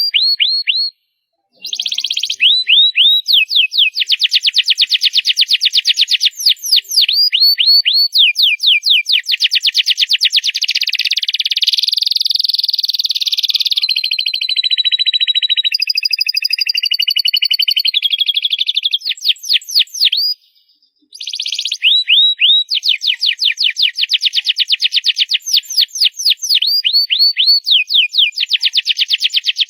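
Domestic canary singing loud, long song phrases of fast trills and rapidly repeated falling notes, pausing briefly about a second in and again about twenty seconds in.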